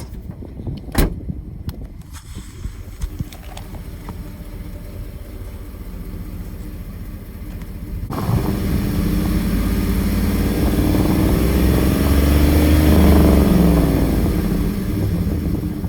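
A Chevrolet Avalanche's 5.3-litre Vortec V8 pickup driving past, engine and tyre noise together. After a quieter stretch with a sharp click about a second in, the truck's sound comes in suddenly about eight seconds in, grows loudest near the end and then begins to fade.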